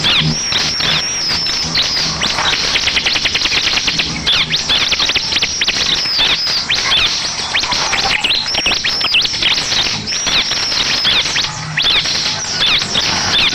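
Bar-winged prinia (ciblek) song: a run of high, arching chirps repeated over and over, with a fast trill about two to three seconds in.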